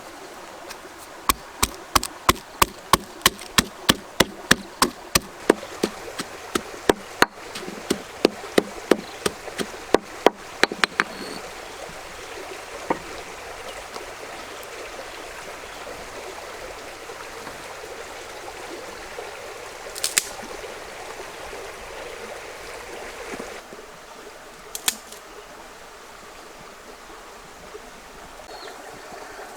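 A rapid series of sharp knocks, about three a second, for around ten seconds, then a few single knocks over a steady rushing background.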